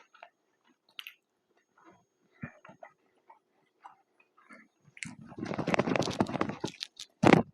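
Close-miked chewing and mouth sounds while eating a fast-food burger and fries: scattered small wet clicks at first. About five seconds in comes a louder, dense crackling passage lasting a second and a half, then one sharp loud burst near the end.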